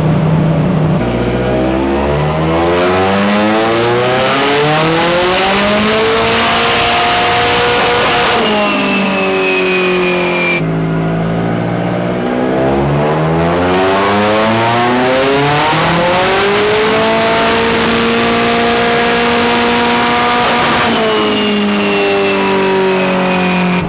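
Turbocharged Nissan SR20DET four-cylinder on a chassis dyno making two full-throttle pulls. Each time the revs climb steadily for several seconds, hold high briefly, then drop back.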